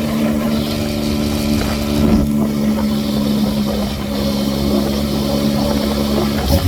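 Yamaha MT-09 three-cylinder engine running at a steady pace through a custom exhaust with a cheap muffler repacked with stainless steel wool, with some wind noise. The note is briefly disturbed about two seconds in and breaks near the end.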